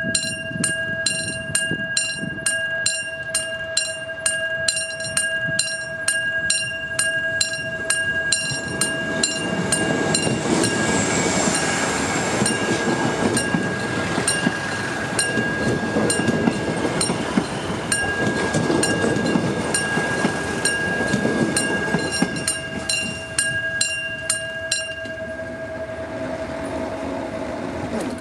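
Railway level-crossing warning bell ringing steadily at about two strokes a second while the Korail Sea Train passes close by, its wheels rushing over the rails from about ten seconds in until about twenty-three seconds in. The bell stops near the end.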